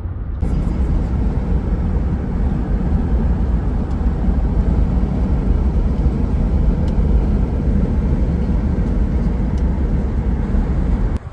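Steady rumble of a car on the move: road and wind noise, heaviest in the low end. It starts abruptly just after the opening and cuts off sharply near the end.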